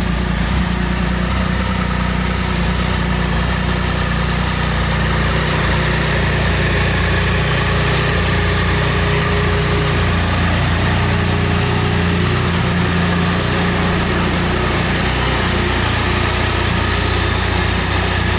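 Triumph Sprint ST 1050's three-cylinder engine idling steadily.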